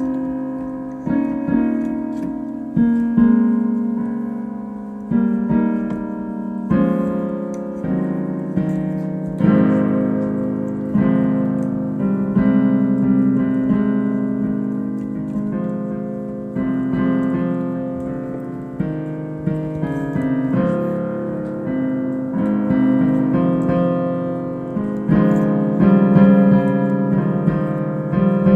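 Solo piano played freely: chords and notes struck about once a second and left to ring and die away, mostly in the middle register, growing a little louder near the end.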